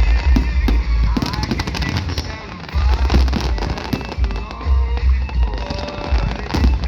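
Fireworks bursting and crackling, heard over loud music with a heavy bass.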